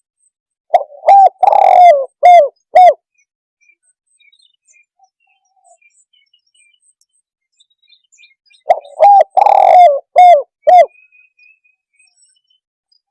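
Spotted dove (tekukur) cooing: two song phrases of about five coos each, one about a second in and another about nine seconds in.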